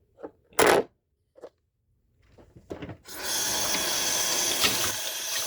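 A short thump and a few clicks, then a water tap is turned on about three seconds in and runs steadily.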